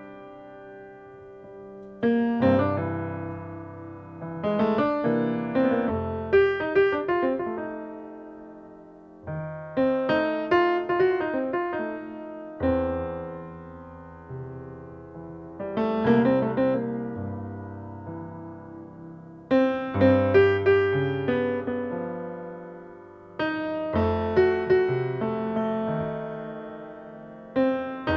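Background piano music: slow phrases of struck chords that fade away between them.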